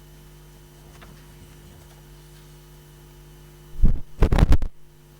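Steady electrical hum from a microphone and sound system. About four seconds in there is a brief cluster of loud, low thumps.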